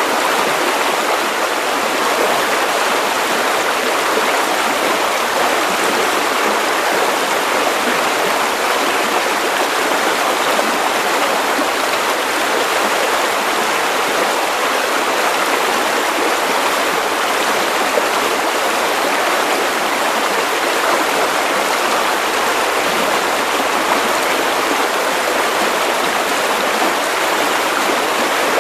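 Steady white noise for baby sleep: an even, unchanging hiss with little bass.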